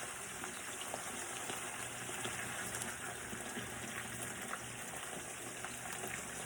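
Seasoned poultry sizzling in a hot pan as it browns: a steady hiss with scattered small crackles.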